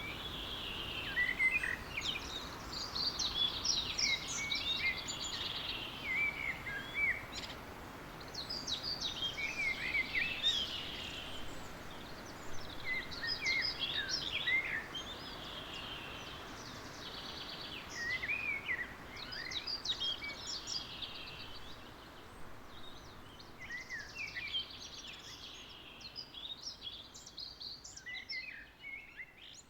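Dawn chorus of songbirds, with song phrases of two to three seconds repeating every few seconds over a faint background hiss. It grows softer toward the end.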